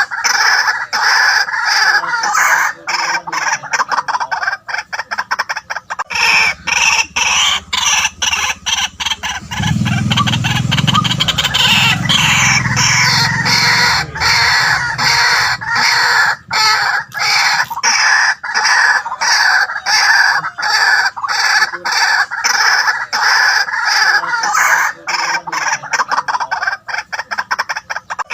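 White-breasted waterhen calling: a continuous run of rapid, repeated loud notes. A deeper hum sits beneath the calls for a few seconds in the middle.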